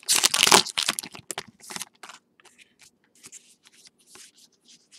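A trading card pack's wrapper crinkling and tearing open for about the first two seconds, then softer short sliding sounds of the cards being flipped through one by one.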